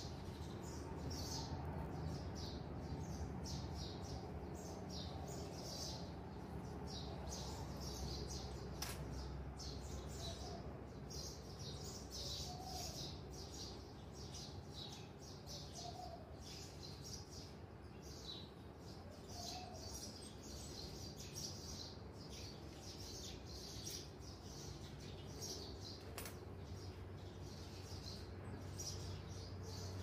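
Birds chirping over and over in quick short notes, over a steady low hum, with two sharp clicks at separate moments.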